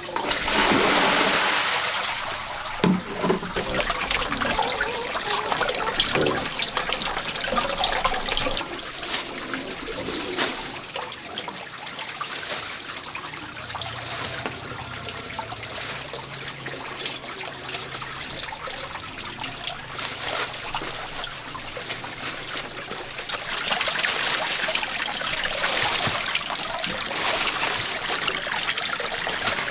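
Water running and trickling, with many small splashes and knocks; it gushes louder at the start and again for the last quarter or so.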